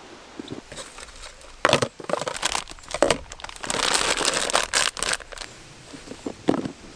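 Dry material being handled, crinkling and tearing, with several sharp snaps and a longer rustling tear around the middle.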